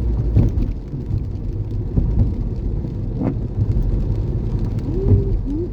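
Road and engine noise of a car heard from inside the cabin while driving: a steady low rumble with a few knocks, and a few short rising-and-falling tones near the end.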